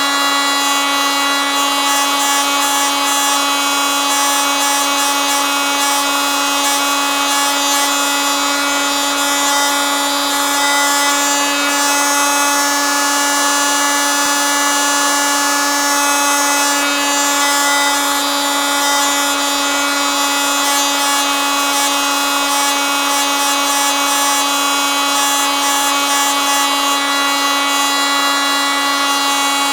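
Oscillating multitool running steadily at constant speed: a loud, unchanging buzz with many overtones.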